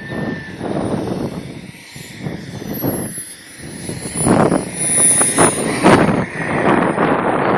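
Radio-controlled F-16 model jet's engine: a thin high whine that slowly falls in pitch. Gusts of wind buffet the microphone, louder past the middle.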